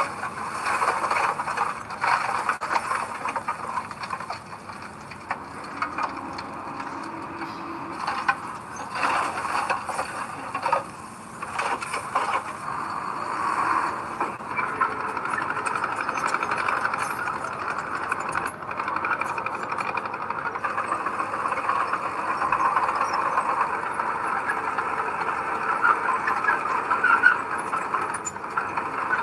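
Heavy earthmoving machinery working: a steady run of diesel engine and mechanical noise, with brief louder spells.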